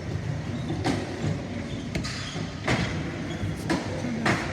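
Mechanical museum exhibits being worked by hand: about six sharp, irregular clicks and knocks over a steady low rumble.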